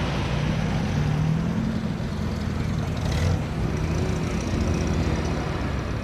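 Engine of a vintage vehicle running steadily at low revs as it moves past, with a brief sharp noise about halfway through.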